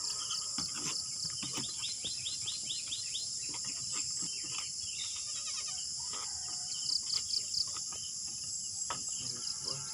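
Steady, high-pitched insect drone with birds chirping over it, including a quick run of chirps about two seconds in.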